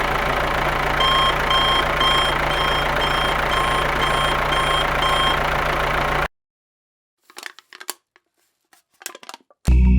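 Reversing alarm beeping about twice a second, about ten beeps, over a steady motor hum. The sound cuts off abruptly about six seconds in, leaving near silence with a few faint clicks, and music begins just before the end.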